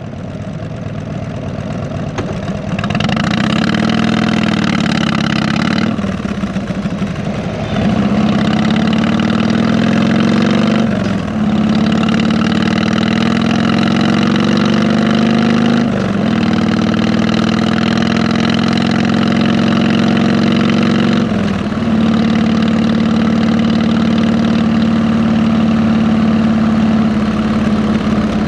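2008 Harley-Davidson Electra Glide Ultra Classic's V-twin engine, exhaust through 33-inch fishtail mufflers, running under way. Its pitch shifts and briefly dips about five times, the pattern of gear changes, then holds steady through the last few seconds.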